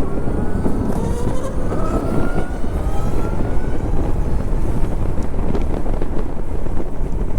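Zero electric motorcycle's motor whine rising in pitch over the first few seconds as the bike accelerates, under heavy wind rush on the microphone.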